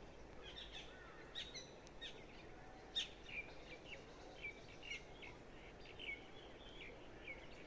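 Several small birds chirping and twittering, short high calls coming every half second or so, over faint outdoor background noise.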